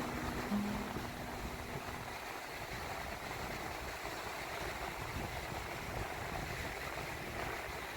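Steady wash of gentle waves on a shallow sandy beach, with wind rumbling on the microphone. A few low held tones die away in the first second.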